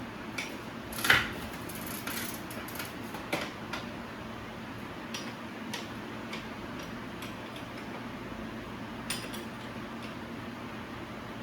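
Light metal clinks and knocks of tools and bicycle parts being handled during bicycle assembly, irregular and a few seconds apart, the loudest about a second in, over a steady low hum.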